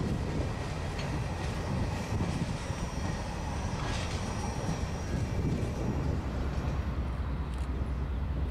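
Freight train of covered hopper cars rolling past at close range, a steady rumble with wheels clicking over the rail; the last car passes about halfway through.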